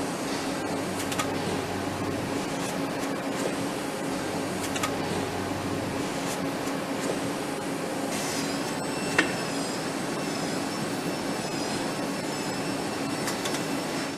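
Steady factory machinery hum with a constant low drone, scattered clicks and light knocks, and one sharp metallic knock about nine seconds in; faint high wavering whines come in during the second half. The noise cuts off abruptly at the very end.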